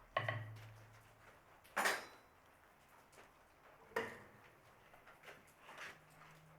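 Blacksmith's steel tools on the anvil: three separate metallic clanks a second or two apart, each ringing briefly, then a few lighter clinks. These are single knocks rather than a run of steady forging blows.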